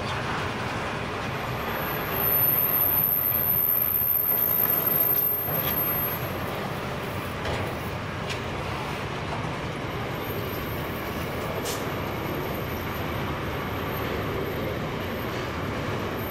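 Loaded container wagons of a long freight train rolling past: steady wheel-on-rail noise, louder for a few seconds about two seconds in, with a faint high whine at times.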